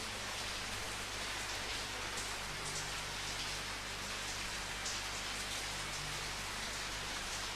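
Steady rain falling, a dense even hiss with single drops spattering here and there.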